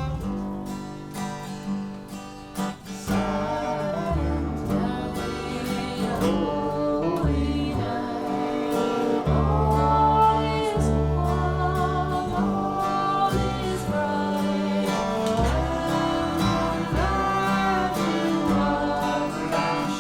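A small acoustic band playing a slow folk song: acoustic guitar and bass under a melodic viola line that bends in pitch.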